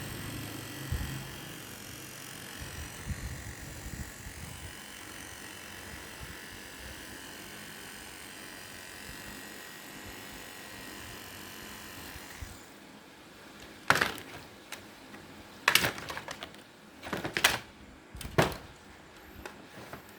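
A small motor running steadily, which stops a little over halfway through. Then come four sharp clacks of hard plastic being handled or knocked, a second or two apart.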